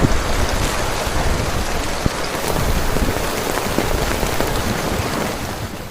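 Heavy rain falling on a tent: a dense, steady hiss with many separate drops ticking and thudding on the fabric.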